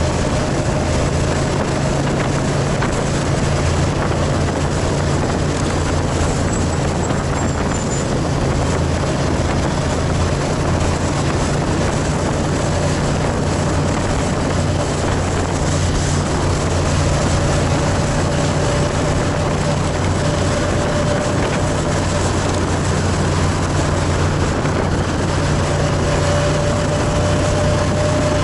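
Motorcycle engine running steadily under way, its pitch drifting slightly, over a constant rush of wind and road noise.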